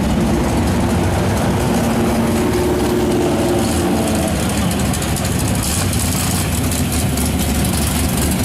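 Car engines running at low speed as parade cars drive slowly past, a steady low hum that fades about halfway through, followed by a noisier hiss.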